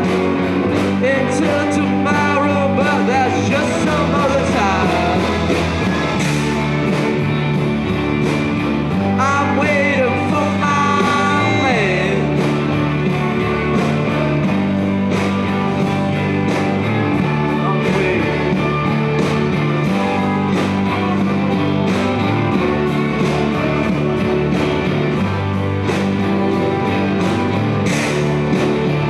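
Live rock band playing an instrumental stretch: electric guitars, bass and drums over a steady driving beat, with bending lead lines near the start and again about ten seconds in.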